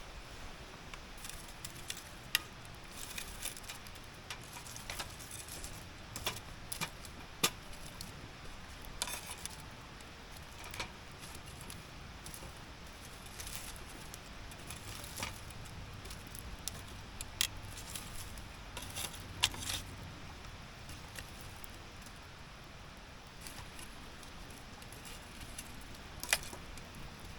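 Wood campfire crackling, with irregular sharp pops and ticks from the burning wood over a faint steady background.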